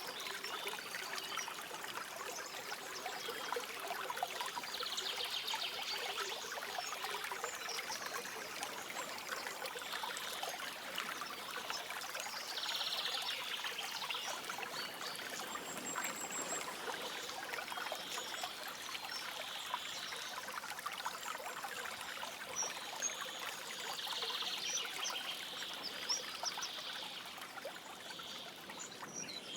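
Shallow stream trickling and babbling steadily over stones, with small birds giving short high trills and chirps now and then.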